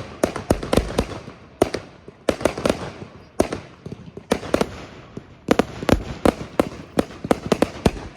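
Fireworks display: a rapid, irregular run of loud bangs from bursting aerial shells, several a second, with crackling in between.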